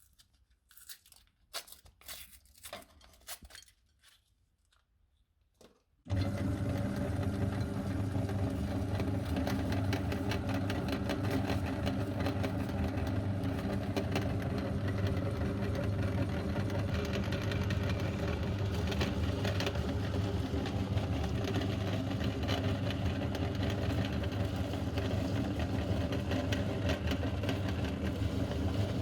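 A few light clicks and crinkles, then about six seconds in an electric meat grinder switches on and runs with a steady motor hum. A constant fine crunching runs through it as the mini ice cream cones are ground.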